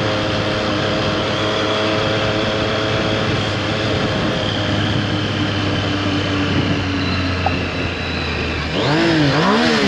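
Motorcycle engine running at a steady speed, its pitch sinking slowly, then revving up and down twice near the end.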